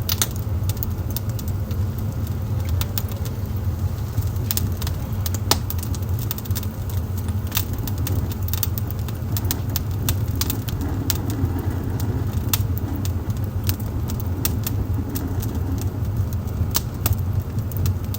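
Wood fire burning in a fireplace: many scattered sharp crackles and pops over a steady low rumble.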